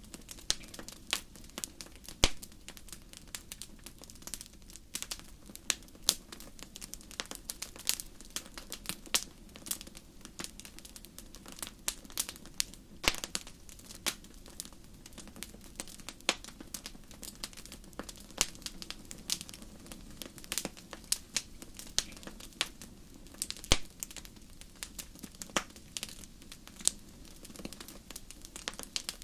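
Wood fire crackling: many sharp, irregular pops and snaps over a low steady rumble of the flames.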